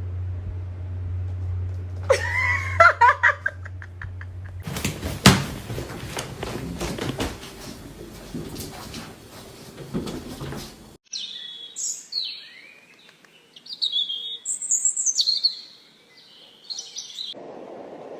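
Birds chirping and tweeting in quick high trills in the latter half. Before that comes a low steady hum with a few short gliding calls, then several seconds of dense clicking and clattering.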